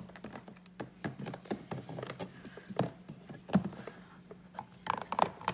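Scattered clicks, taps and knocks of plastic dolls and toy pieces being handled and moved on a toy playset, the loudest a few knocks near the end, over a faint steady low hum.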